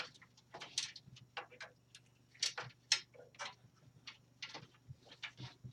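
Irregular clicks and taps of cables and plastic connectors being handled and pushed into place inside an old desktop computer case, over a faint steady low hum.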